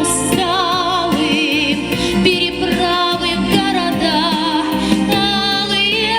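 A woman singing a sustained melody with vibrato over instrumental backing music.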